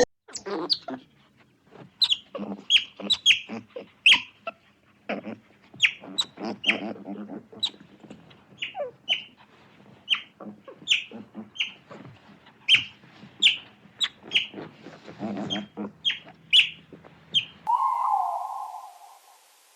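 Bird calls: a long run of short, sharp chirps, each sweeping quickly downward, at irregular spacing. Near the end the chirps stop and a different steady tone with a hiss takes over.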